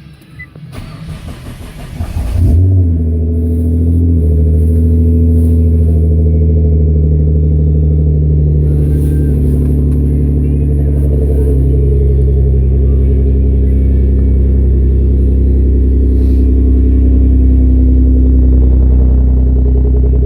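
Nissan R35 GT-R's twin-turbo 3.8-litre V6 being cranked by the starter and catching about two and a half seconds in, then idling steadily through its new aftermarket exhaust.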